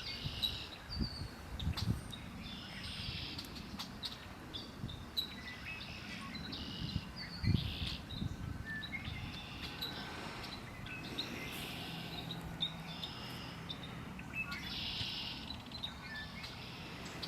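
Several wild birds singing and calling in short repeated high phrases, over a background of outdoor noise with a few brief low rumbles and, from about ten seconds in, a faint steady low hum.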